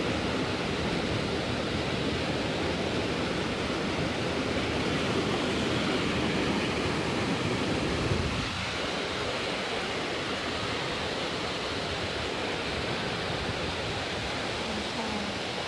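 Steady rush of water at a waterfall, with a low rumble that eases about eight seconds in.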